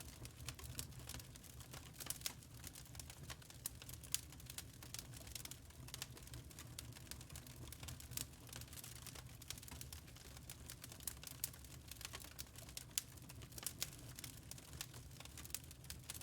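Wood fire crackling: frequent irregular small snaps and pops over a low, steady rumble.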